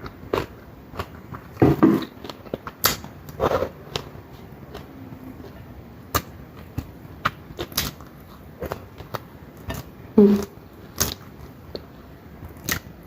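Close-up eating sounds: chewing and crunching with many short, sharp clicks, and a few brief louder mouth sounds.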